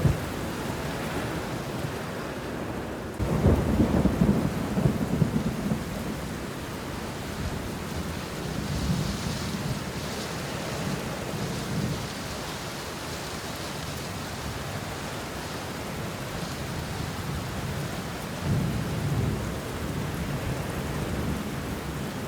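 Steady rain falling on banana leaves and bushes, with rolls of thunder: a loud low rumble about three seconds in that lasts a few seconds, and weaker rumbles later.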